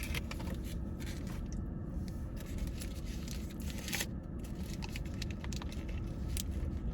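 Food packaging crinkling and tearing with irregular crackles and scrapes as a sauce container is opened and its sauce put on the food. The sharpest click comes about four seconds in.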